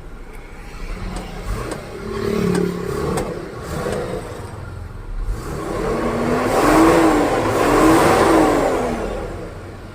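Isuzu 6HK1 inline-six diesel engine running freshly restarted and being revved: a short rise about two seconds in, then a longer rev that climbs and falls back near the end. It now runs after a hard-starting fault traced to loose fuel lines on the cylinder 5 and 6 injectors.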